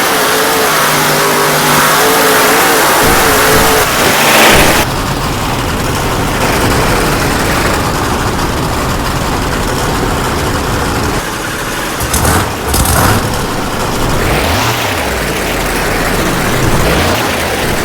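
Monster truck engine revving loudly. For the first five seconds or so its pitch wavers up and down, then it settles into a steady loud running roar.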